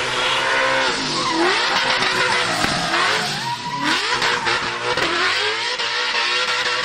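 A drift car's engine revving hard, its revs dropping and climbing back several times, over a steady hiss of skidding tyres.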